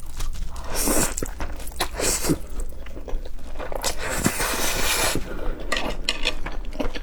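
Close-miked eating of spicy fire-chicken instant noodles: chewing with small wet clicks, and two longer slurps about a second in and about four seconds in.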